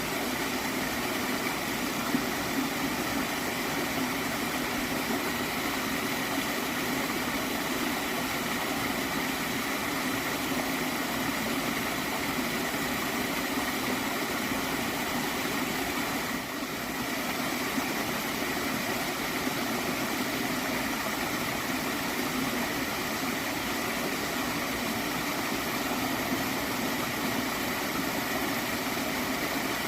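Gently flowing stream of water gurgling steadily, with a brief slight dip about halfway through.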